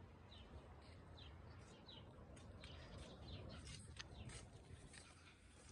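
Faint bird chirps, short falling calls repeating about once a second, with scattered faint clicks later on, over a low steady rumble.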